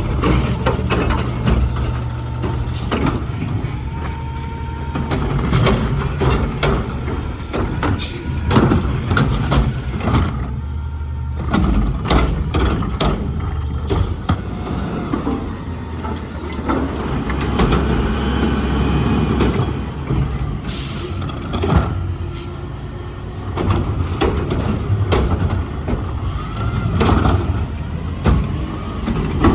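Garbage truck engine running steadily, with repeated clanks and knocks and a short hiss of air about two-thirds of the way through.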